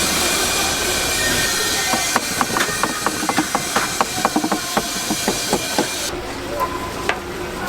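Steady hiss in a food-shop kitchen, with a quick run of sharp clicks and knocks in the middle; the hiss cuts off abruptly about six seconds in.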